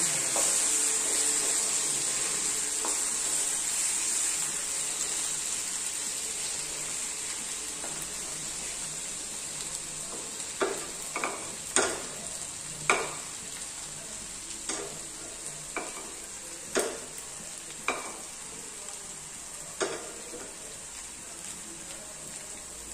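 Ripe plantain slices sizzling as they sauté in ghee in a nonstick frying pan on medium heat, the sizzle strongest at first and slowly easing. From about halfway through, a string of sharp taps and scrapes as a wooden spatula stirs the slices against the pan.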